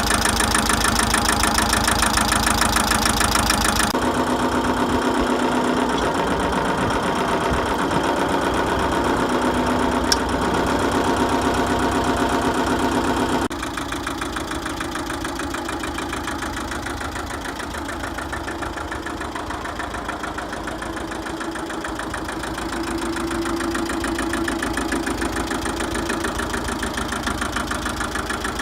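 Ford 1300 compact tractor's diesel engine running steadily. Its sound changes abruptly twice, about four seconds in and about halfway through, and it is quieter after the second change.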